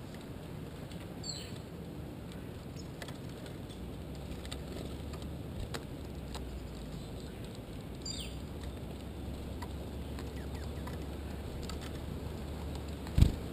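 Small birds calling, two short high chirps falling in pitch about a second in and about eight seconds in, over a low steady rumble with scattered light ticks. A single loud thump comes near the end.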